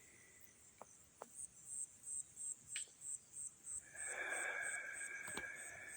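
Crickets chirping, a very high-pitched chirp repeating about three times a second. About four seconds in a steady, higher-than-voice tone comes in, with a few sharp clicks scattered through.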